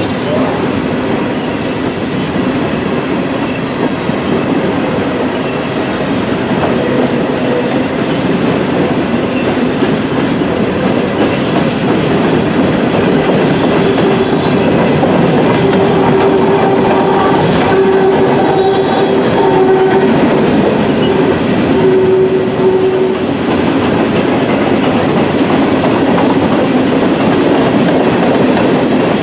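Empty coal hoppers of a freight train rolling past, with a steady rumble and clatter of steel wheels on rail. About halfway through, the wheels squeal for several seconds.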